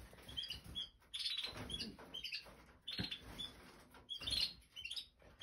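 Domestic canaries giving short, high chirps and calls, one every second or so, with quiet gaps between them.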